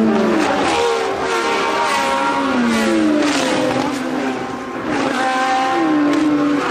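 Formula One race cars' engines running at high revs, rising in pitch through each gear and dropping at every upshift, with several cars overlapping.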